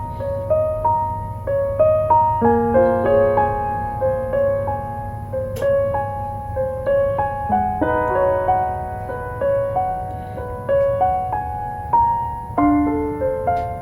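Slow, gentle solo piano music, one note after another, over a steady low background hum. There is a single sharp click about halfway through.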